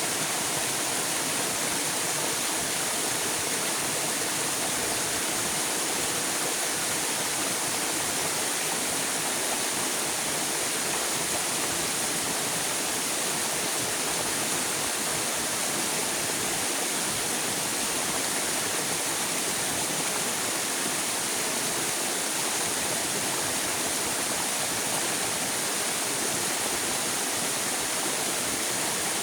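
River water flowing steadily: an even, unbroken rushing hiss.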